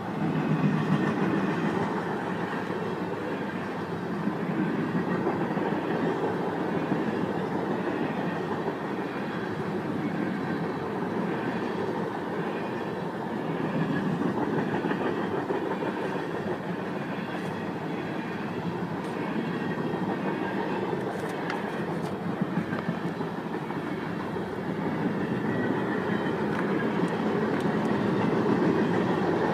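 Norfolk Southern freight train rolling past, the cars' wheels on the rails making a steady rumble.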